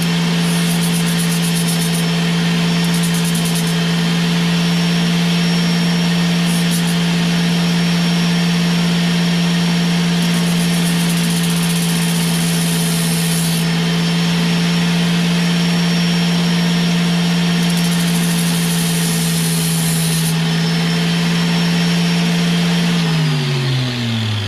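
Small rotary grinder running at a steady high speed, grinding away the cap of a stock truck fuel injector, with a gritty hiss that comes and goes as the bit bites in. Near the end it is switched off and winds down, falling in pitch.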